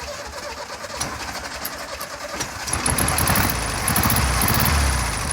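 1973 VW Super Beetle's air-cooled flat-four engine running on its first start after sitting dry, getting louder about halfway in.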